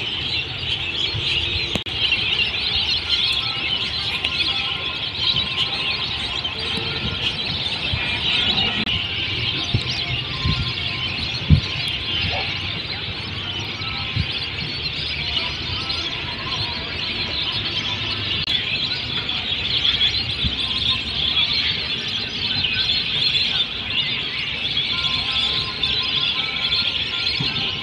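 Dense chorus of a large flock of wintering migratory birds on a wetland, many calling and chattering at once without a break. A brief low thump sounds once partway through.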